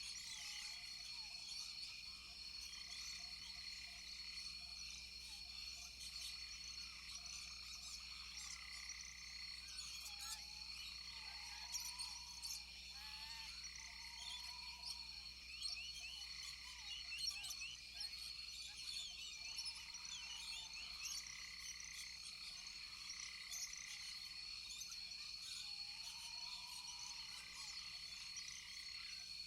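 Chorus of frogs and insects. Steady high-pitched trilling runs underneath many short chirps, and a lower call that rises and falls repeats every couple of seconds.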